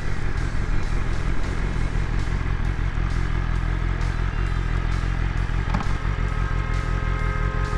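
Motorcycle engine running with road and wind noise, heard from the rider's camera. A steady held tone of several notes comes in about six seconds in.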